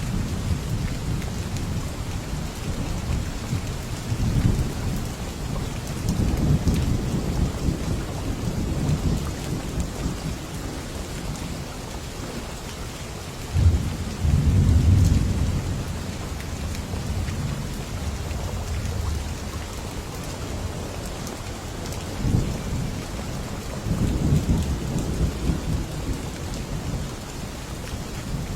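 Steady rain hissing, with rolling thunder: low rumbles swell and fade several times. The loudest starts with a sudden crack about 14 seconds in and rumbles on for about two seconds.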